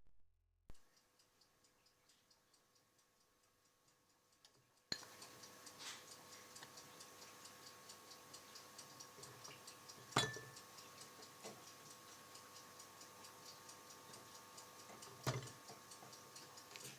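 Faint, fast, evenly spaced ticking, about four ticks a second, louder from about five seconds in, with two sharper clicks about ten and fifteen seconds in.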